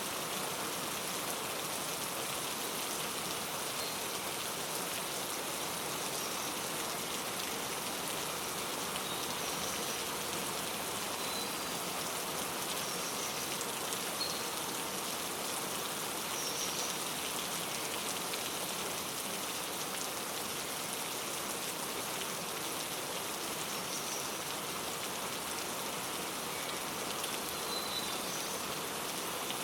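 Steady rain falling, with faint, short bird chirps scattered through it.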